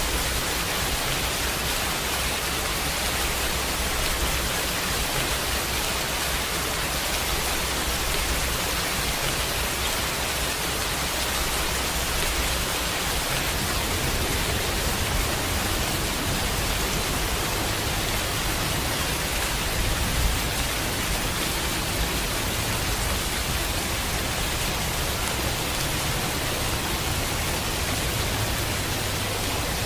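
Steady heavy rain: a dense, even hiss of falling rain with no gaps.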